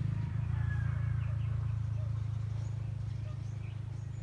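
Low steady rumble, with small birds chirping faintly over it.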